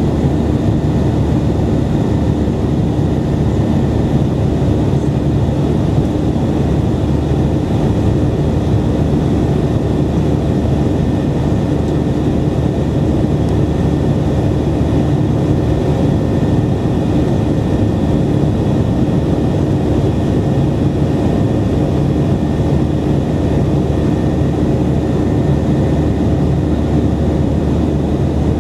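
Steady drone of a Boeing 737-800's CFM56-7B turbofan engines during the takeoff climb: a dense low rumble with a steady hum and a fainter high whine, unchanging in level.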